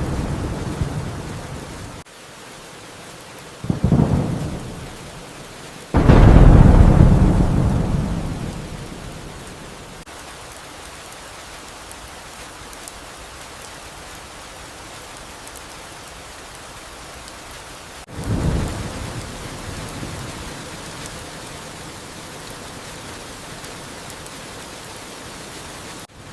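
Steady rain with thunder: a rumble at the opening breaks off about two seconds in, and a sharp clap comes about four seconds in. The loudest crack, about six seconds in, rolls off over several seconds, and another peal comes about eighteen seconds in.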